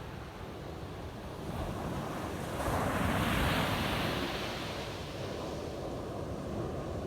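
Ocean surf on a beach: a wave breaks about two and a half seconds in and its rush of foam swells and fades away, over a steady low rumble.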